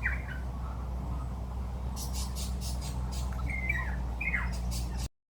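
Birds squawking: a few short calls that slide downward, one right at the start and a cluster about four seconds in, with some brief rustling in between, over a steady low hum. The sound cuts off abruptly near the end.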